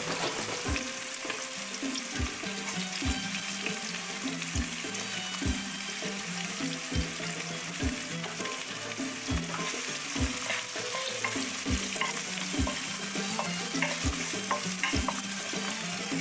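Hot oil sizzling steadily as sliced shallots, garlic and lemongrass fry in a non-stick wok, with a spatula stirring them near the end.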